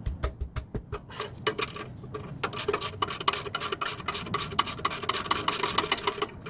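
Ratchet wrench clicking in quick strokes as it loosens the exhaust flange bolts on the secondary muffler, with a few low knocks about a second in.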